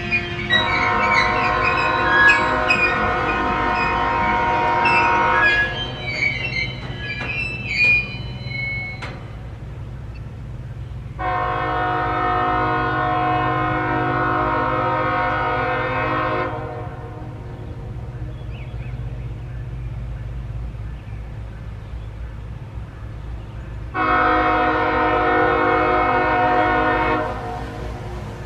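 CSX freight locomotive horn sounding three blasts, two long and one shorter, with several seconds between them, over the low, steady rumble of the train.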